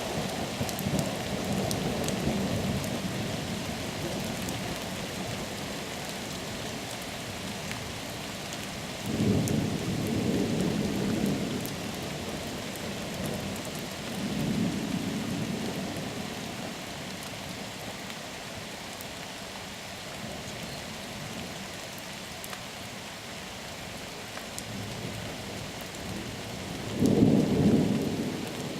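Steady rain hissing, with thunder rolling through it: a deep rumble fading at the start, two more about a third of the way in and around halfway, and the loudest near the end.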